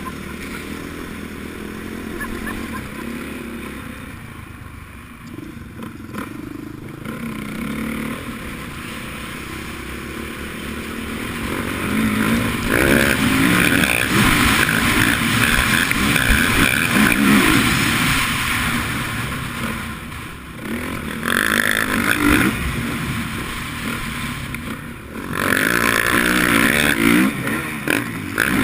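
Motocross dirt bike engine running at modest revs for about the first ten seconds, then revving hard under acceleration around the track, the pitch rising and falling constantly. It briefly drops off the throttle twice in the second half.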